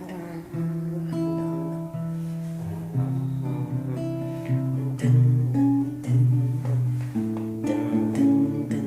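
Guitar music: plucked and strummed notes over a bass line, chords changing about every half second.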